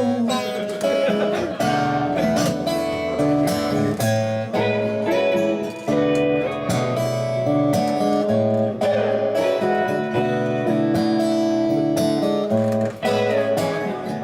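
Instrumental passage of a live song: a guitar strummed and picked in changing chords, with no singing.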